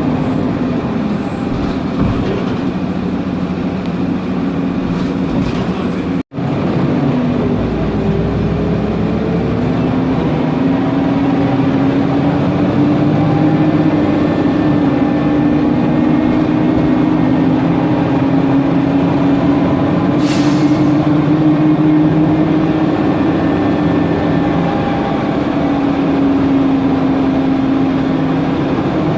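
Mercedes-Benz Conecto NGT city bus under way, heard from inside: the CNG engine and Voith DIWA automatic transmission give a steady whine over road and cooling-fan noise. The whine rises in pitch about seven seconds in, as the bus gathers speed, then holds level. There is a short hiss of air about two-thirds of the way through.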